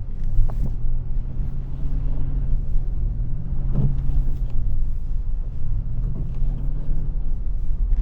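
Truck engine running, heard from inside the cab: a steady low drone whose pitch shifts a little as the throttle changes, with a couple of short knocks.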